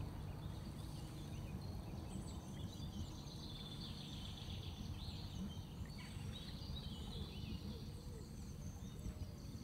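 Birds calling and chirping over a steady low rumble. The calls are busiest from about two seconds in until about seven seconds.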